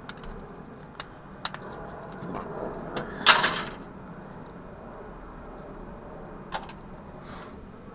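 Clicks and knocks of small plastic and metal parts as a CD drive is taken apart by hand, with one louder rattling scrape about three seconds in.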